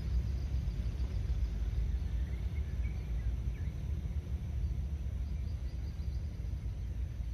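Low, steady rumble of a distant diesel train during a shunting move, easing slightly as it draws away. Small birds chirp now and then above it.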